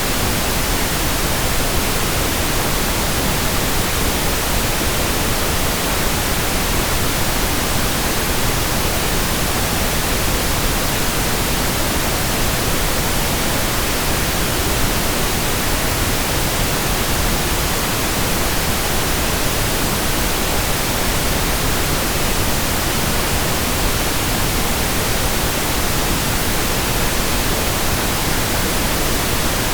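Synthetic pink noise: a steady, unbroken hiss spread evenly across the whole range, with no changes or events.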